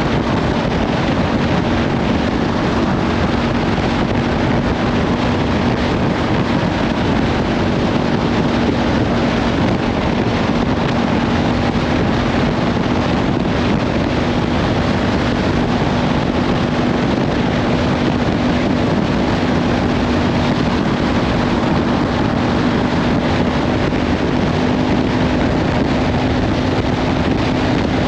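Kawasaki Ninja 500 parallel-twin engine with a Leovince slip-on exhaust running at a steady, unchanging pitch while cruising, largely buried under heavy wind noise on the microphone.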